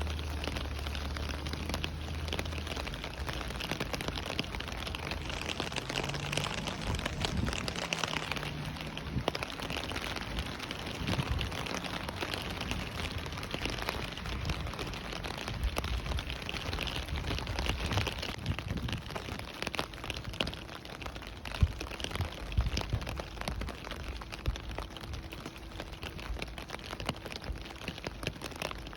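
Steady rain falling, with a dense patter of individual drops hitting a surface and a few sharper, louder drop hits about three-quarters of the way through. A low rumble sits under the rain for the first few seconds.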